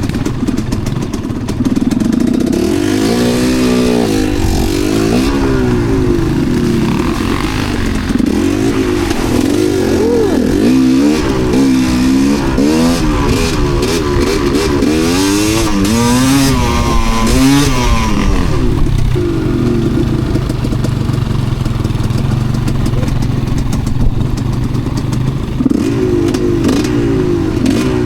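Enduro dirt bike engine being ridden hard, its pitch repeatedly rising and falling in quick swells of throttle for much of the time, with steadier running near the start and end.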